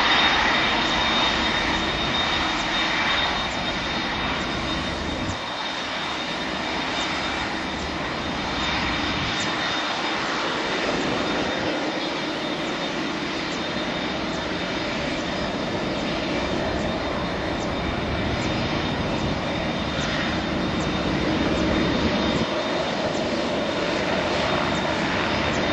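Airbus A319's twin CFM56 turbofan engines running: a steady jet roar with a thin high-pitched whine over it.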